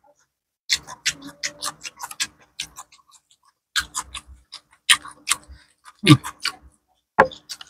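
Mouth sounds of eating fried gourami by hand: wet chewing smacks and lip clicks in short clusters with pauses between, the biggest groups about a second in and about four seconds in.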